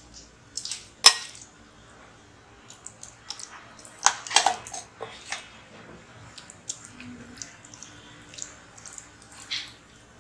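Kitchen utensils clinking and scraping against a bowl as bread-cake batter is transferred into a butter-greased vessel, with wet drips. A sharp knock about a second in and a short burst of clatter about four seconds in.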